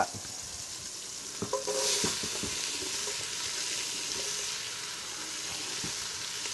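Chopped carrot, onion and celery sliding off a wooden cutting board into a hot pot, sizzling in the rendered pancetta fat. The sizzle swells about two seconds in, with a few light knocks of the board and vegetables against the pot.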